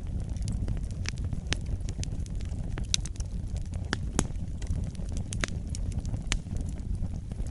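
Wood fire burning in a fireplace: a steady low rumble of flames with irregular sharp crackles and pops of the wood, several a second.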